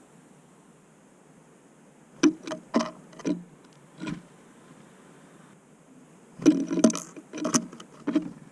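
Small birds at a seed feeder, tits landing and pecking, their beaks and claws tapping and knocking on the feeder. The taps come in two short clusters, about two seconds in and again about six and a half seconds in.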